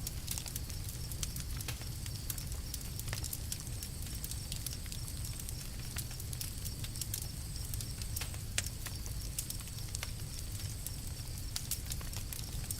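Campfire crackling, with frequent sharp irregular pops over a steady low rumble of the burning fire.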